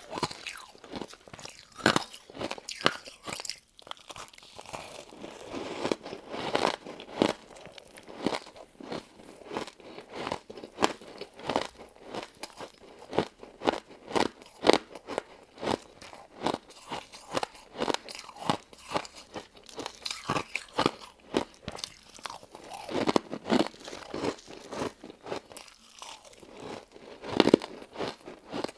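Close-miked eating of a crunchy crystal ice dessert: repeated crisp crunches and chewing, irregular and about one to two sharp crunches a second.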